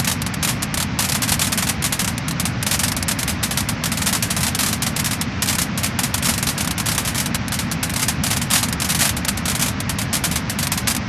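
Wood fire crackling and popping in a fireplace: a dense, steady run of sharp snaps over a continuous low rumble of the flames.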